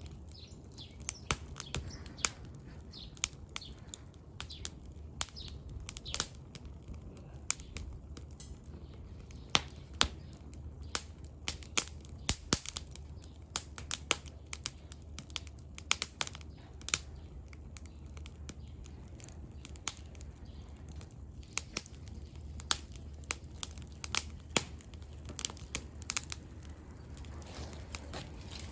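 Burning firewood in a small fire pit, crackling and popping in irregular sharp snaps, a few of them louder.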